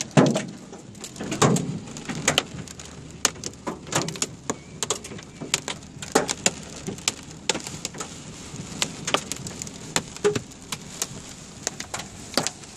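Hailstones striking a car, heard from inside: irregular sharp cracks, a few each second, some loud, over a low steady hiss.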